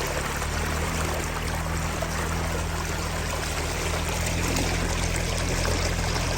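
Small boat motor running steadily at low speed, with water rushing and splashing along the hull.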